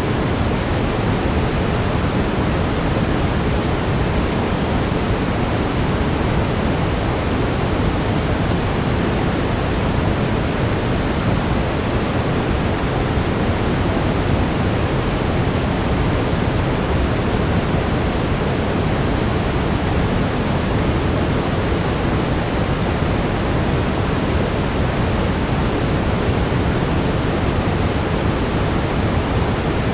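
Steady brown noise: an even, deep rushing hiss that holds constant throughout.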